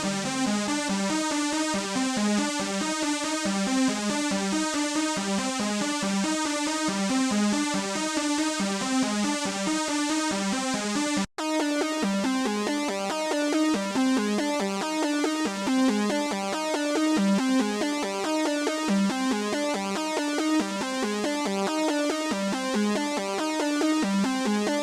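u-he Podolski software synthesizer playing a factory preset: a fast, evenly repeating pattern of synth notes with a bright, hissy top. It cuts out for an instant about eleven seconds in, and the pattern resumes as a darker, duller preset.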